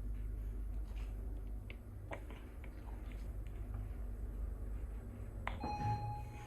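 1999 LG Industrial Systems elevator car running with a steady low hum and a few light clicks, then a single arrival chime rings out about five and a half seconds in and slowly fades, signalling that the car has reached a floor.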